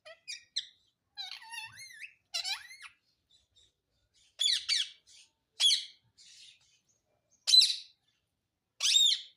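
Pet parrot calling: a run of soft chirps and warbling whistles, then four louder, harsher calls a second or two apart.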